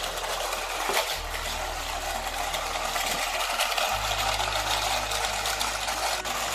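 Battery-powered Hot Wheels track booster's motor whirring steadily, its pitch shifting about a second in and again near four seconds in, with a diecast car clattering along the plastic track and a sharp click about a second in. The booster's batteries are running down.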